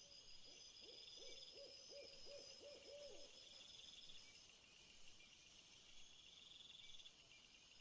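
Faint night ambience: a quick series of about eight soft owl hoots, roughly three a second, over a steady high insect trilling that goes on throughout.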